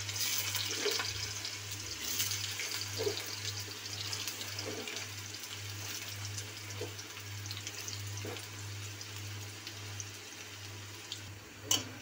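Potato cubes frying in hot ghee: a steady sizzle and bubbling that slowly eases over the seconds, over a low steady hum. A short knock near the end.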